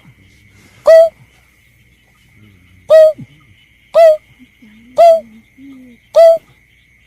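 Lure-call recording of the bird known in Indonesia as berkik or belkek: short, hoot-like notes repeated about once a second, with a gap of about two seconds after the first few. A faint, steady high-pitched tone runs underneath.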